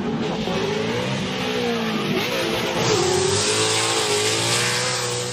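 Racing car engine accelerating hard, its pitch climbing and dropping back at each gear change, loudest a little past the middle as the car comes by.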